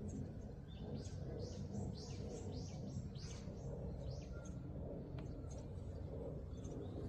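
Baby birds chirping: a quick run of about a dozen short, high chirps, each falling in pitch, about three a second, stopping about four seconds in, over a low steady background hum.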